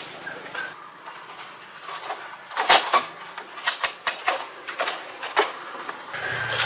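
An irregular series of sharp clicks and knocks, the loudest cluster about three seconds in, over a low background.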